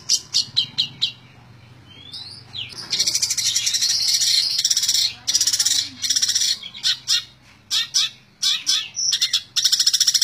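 Long-tailed shrike (cendet) singing in rapid-fire runs of sharp, high notes, the 'tembak ngebren' shooting style that keepers prize. The song pauses about a second in, runs long and unbroken through the middle, then breaks into shorter bursts with a few downward whistles near the end.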